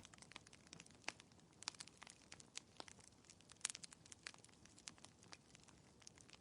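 Wood fire crackling faintly in a fireplace: scattered sharp pops and snaps at an irregular pace, several a second.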